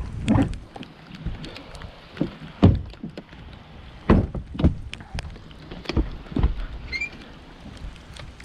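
Irregular knocks and thumps of people climbing into and moving about in a boat as it is pushed off, about nine in all, over the steady hiss of pouring rain.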